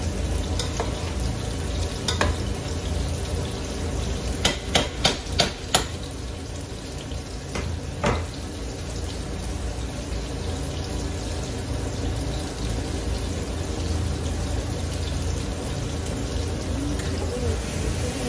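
Steady frying sizzle from the pans on a gas hob. A metal spoon clinks against the aluminium rice pot: once about two seconds in, in a quick run of about five taps from about four to six seconds, and once more near eight seconds.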